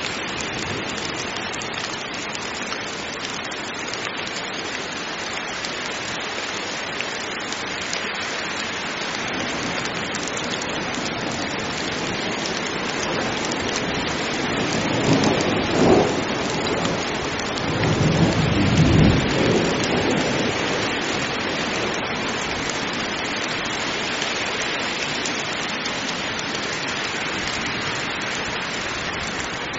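Heavy rain falling steadily, with a rumble of thunder about halfway through that swells twice before fading back into the rain.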